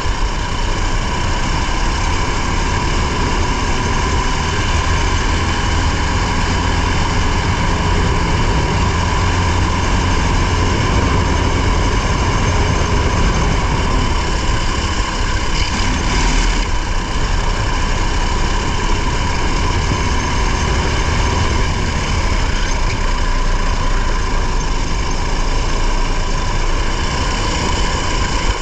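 Racing car's engine running continuously under way, with dense road and wind noise, heard from on board the car.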